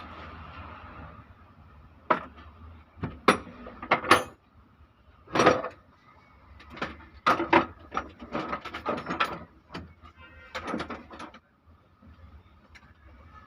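Irregular clanks and clicks of metal parts and hand tools being handled while an engine is taken apart, a dozen or more sharp knocks, some in quick clusters.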